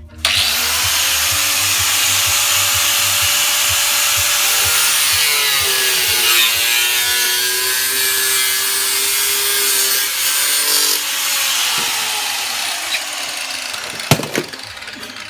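Angle grinder cutting titanium. The motor's whine sags under load in the middle of the cut and picks up again, then winds down near the end. A sharp knock follows shortly after.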